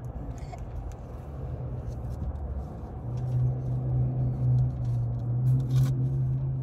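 A motor vehicle running: a low rumble, joined about three seconds in by a steady low hum that grows louder.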